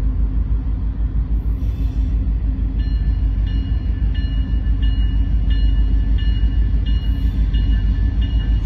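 Low rumble of an approaching train, with a railroad crossing bell ringing a little under twice a second from about three seconds in. A locomotive horn starts right at the end.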